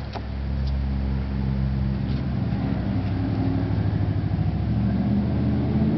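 Vintage Penncrest 200 box fan switched on with a click, its motor humming and the blades spinning up, the hum growing steadily louder.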